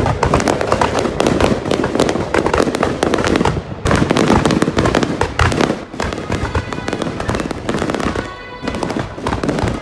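Fireworks going off in rapid succession: a dense, continuous run of loud cracks and pops. Music plays underneath.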